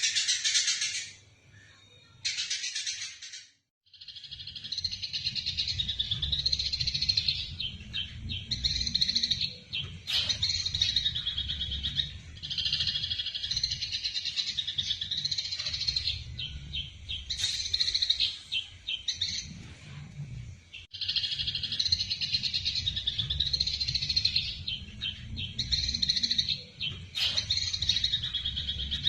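Eurasian tree sparrows chattering in dense, rapid chirps, the excited calls of sparrows fighting, over a steady low rumble. The chatter drops away for a few seconds near the start and breaks off briefly again about two-thirds through.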